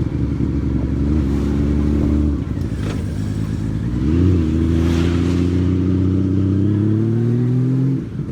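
Honda Valkyrie's flat-six engine running under way as the motorcycle is ridden, its pitch holding, then climbing slowly, with two short dips, about two and a half seconds in and near the end.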